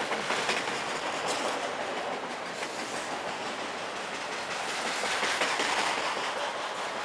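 Freight train of autorack cars rolling past close by: a steady rumble and hiss of steel wheels on rail, with a few sharp clicks as the wheels cross rail joints. It swells slightly near the start and again about five seconds in.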